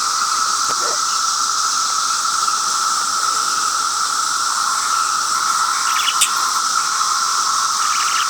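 Cicada chorus droning steadily at one pitch, with a few short clicks about six seconds in and near the end.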